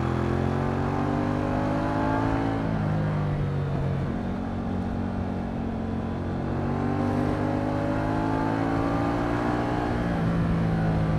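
Moto Guzzi V100 Mandello's transverse 90-degree V-twin engine under way, pulling harder. The revs climb for the first two and a half seconds, ease back, climb again through the middle and drop back about ten seconds in.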